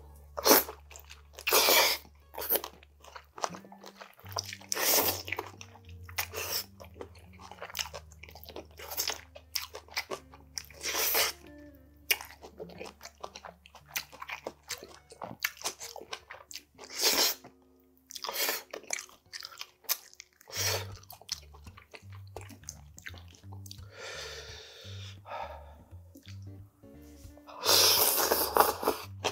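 Close-miked chewing and crunching of spicy steamed monkfish with bean sprouts, in many short loud mouthfuls, with a longer slurp as a mouthful is sucked in near the end.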